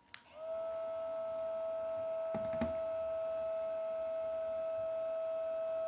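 Smoke-unit fan motor of an MTH model locomotive switched on with a click, then running with a steady, even whine.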